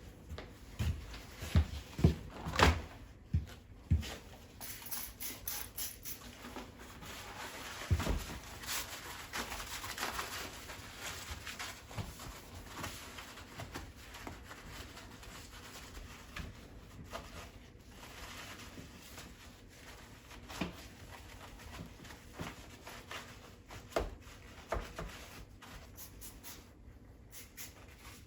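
Refrigerator cleaning sounds: a quick run of knocks and clicks as items and parts are handled, then several seconds of steadier rubbing or rushing noise, then scattered knocks.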